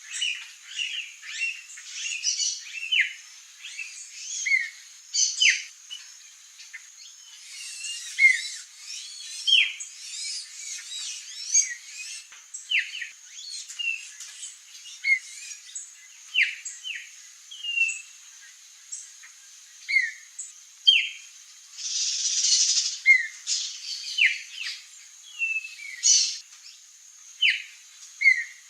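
Songbirds calling, a busy run of short chirps and whistles, some gliding, with a brief hiss about three quarters of the way through.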